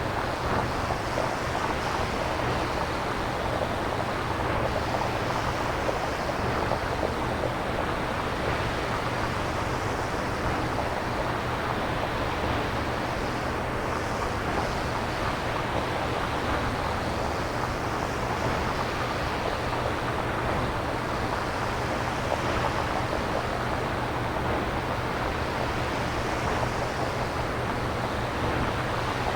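Synthesized nature noise that imitates ocean surf: a steady hiss with slow, gentle swells every few seconds, made on a synthesizer rather than recorded.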